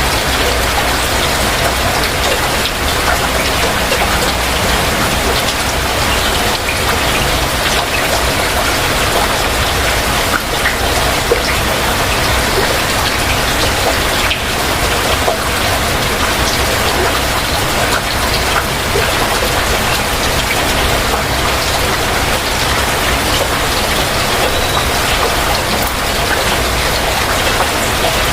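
Heavy rain falling steadily, a dense even hiss with many individual drops ticking on surfaces.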